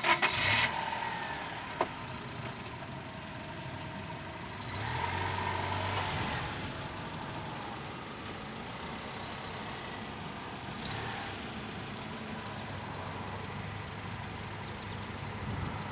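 A car engine running, swelling louder for a couple of seconds about five seconds in, after a short loud noise at the very start.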